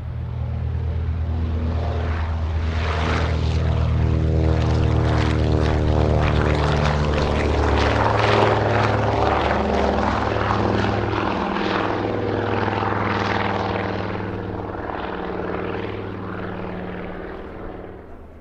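Twin Pratt & Whitney Twin Wasp radial engines of a PBY-5A Catalina flying boat running at take-off power on its take-off roll. The engines grow louder over the first couple of seconds, are loudest about halfway through, then slowly fade as the aircraft moves away.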